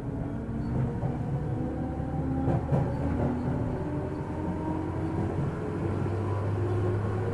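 JR 205-series electric train heard from inside a motor car under way: the externally fanned traction motors whine in several tones that rise slowly with speed, over a low running rumble. A few knocks from the wheels about two and a half to three seconds in.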